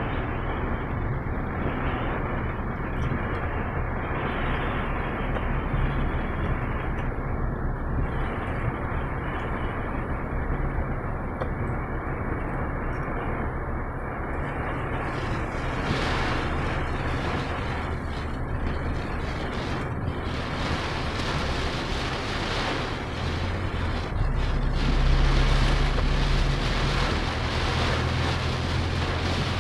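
Storm wind rushing steadily, with wind buffeting the microphone in a low rumble; the gusts grow stronger about 24 seconds in.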